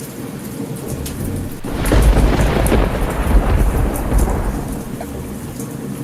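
Steady rain with a roll of thunder that swells about a second and a half in and rumbles for a few seconds before fading near the end. Scattered sharp ticks run through it.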